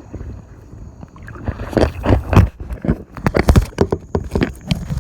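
Water splashing and sloshing around a kayak, likely paddle strokes. From about a third of the way in comes a quick run of sharp, loud splashes or knocks.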